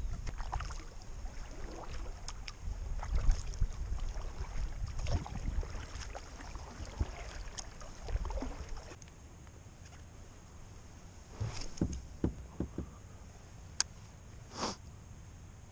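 Scattered knocks, clicks and rustles of gear being handled in a plastic kayak, over a low rumble on the microphone for the first nine seconds. After that it quietens, with a few knocks and a sharp click near the end.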